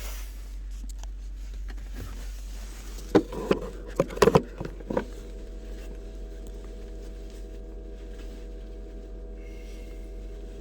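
A quick run of sharp clunks and knocks about three to five seconds in, as the 2004 Lexus GX 470's door is worked while the SUV warms up, over a steady low rumble. After the clunks, a steady hum with several tones.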